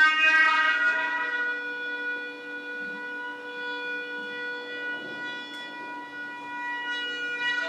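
Shofar (ram's horn) blown in one long blast that starts abruptly and holds a steady pitch, stepping up to a higher note right at the end.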